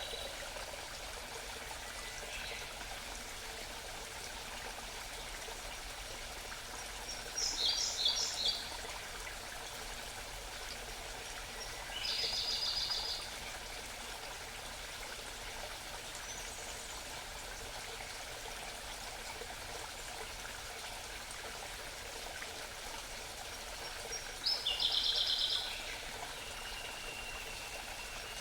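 Small mountain stream babbling steadily, with a songbird singing short, rapid high trills three times over it.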